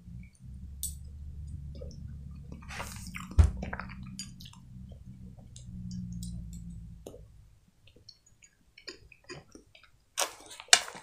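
Close-miked chewing of a spoonful of solyanka soup with potato and meat: wet mouth sounds and small clicks over a low steady hum that lasts most of the first seven seconds. A sharp click comes about three and a half seconds in, and a louder, noisy burst near the end.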